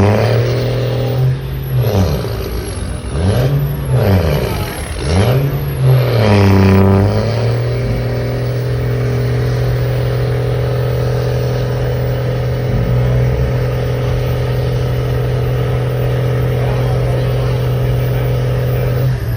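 Truck engine revved up and down several times in quick blips, then held at a steady high rev for about eleven seconds before cutting off near the end.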